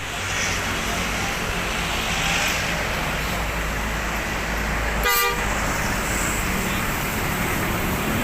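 Steady traffic and engine rumble, with one short vehicle horn toot about five seconds in.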